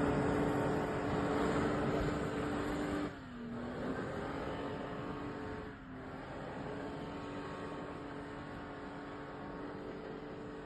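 Four-wheel-drive vehicle's engine running steadily under load over a rushing noise, off-road in snow. The engine note dips briefly and the sound drops in loudness about three seconds in, and again near six seconds.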